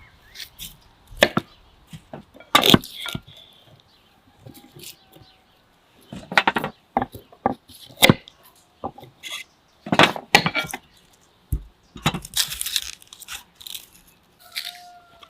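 Irregular sharp knocks and cracks of wood, about a dozen spread unevenly, some in quick clusters.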